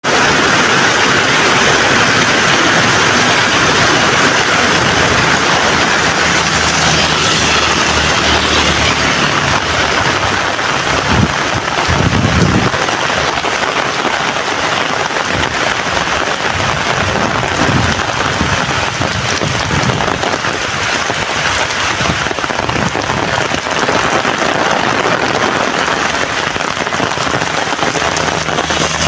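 Heavy rain falling steadily, with a few brief low rumbles about a third and two-thirds of the way in.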